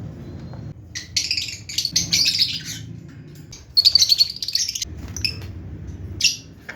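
Lovebirds chirping in shrill, rapid twittering bursts: a run about a second in, a louder one about four seconds in, and a short call near the end.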